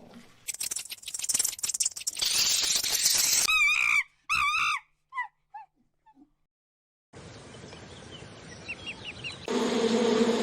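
A run of short animal sound clips: a crackling, rustling noise, then a wavering bird-like call given twice that trails away in fading echoes, a brief silence, and a few faint high chirps. A steady hum begins near the end.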